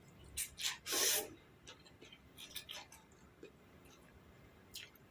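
Close-up mouth and eating noises: a few short noisy bursts in the first second and a half, the loudest about a second in, then faint scattered clicks.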